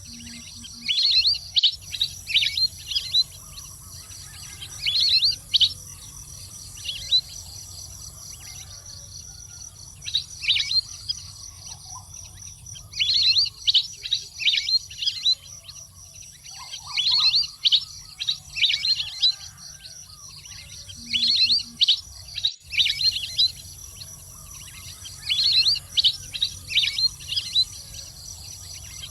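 Waterfowl calling: clusters of sharp, high whistled notes, each falling quickly in pitch, given in rapid runs that come back every few seconds, over a faint steady insect drone.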